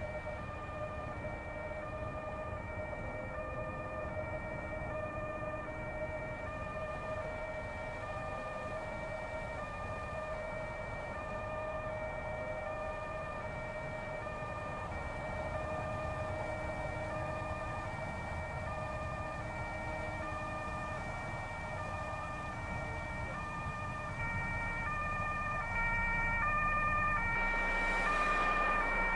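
Two-tone emergency-vehicle siren switching back and forth between a high and a low pitch in an even rhythm, over a steady low rumble of traffic. The siren grows louder near the end.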